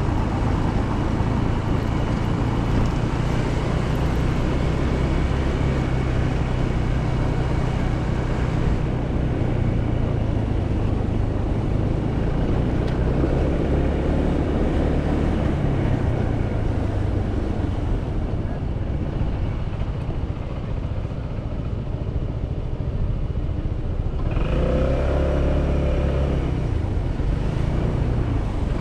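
Motorcycle engine running under way, heard from the rider's position with road and wind noise. It eases off and quietens about two-thirds through, then the engine note comes up strongly again as it accelerates near the end.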